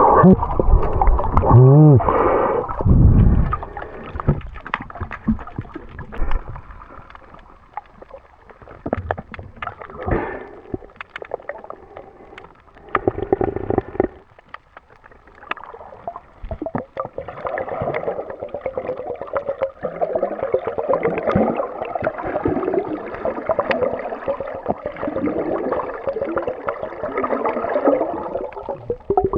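Water gurgling and bubbling as heard on a microphone in and out of the sea, loudest in the first few seconds, then a steady busy bubbling in the second half.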